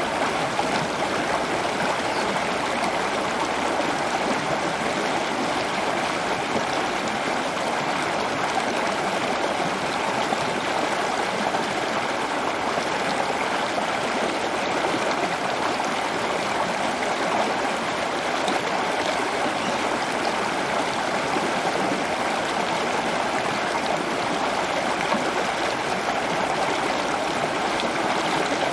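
Steady running water, an even rushing and trickling like a stream or small fountain, unchanging throughout.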